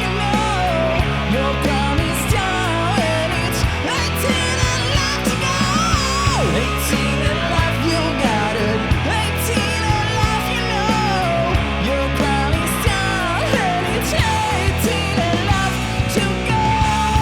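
Hard rock music: a male voice sings a melody over drums, bass and electric guitar.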